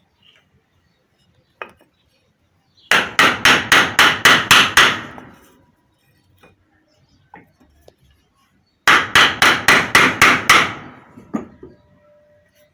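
Two runs of about eight quick hammer blows, roughly four a second, struck on a wooden board held against a centrifugal water pump's shaft to knock out a bearing. The first run comes about three seconds in and the second about six seconds later.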